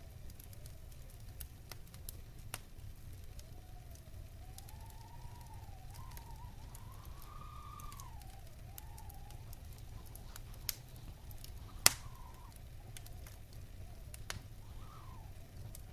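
Wood fire in a fireplace crackling, with scattered small pops and one loud sharp pop about 12 seconds in, over a low steady rumble. A faint wavering howl rises and falls through the middle and again briefly near the end.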